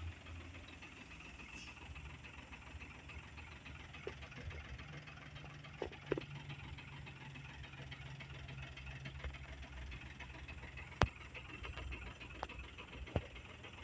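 An engine idling steadily in the background, with a low hum that grows a little stronger about five seconds in. A few sharp clicks come near the end.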